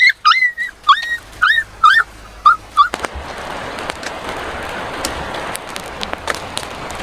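A dog whining: a run of about eight short, high-pitched whimpers that bend up and down in pitch, stopping about three seconds in. After that there is a steady hiss with scattered light clicks.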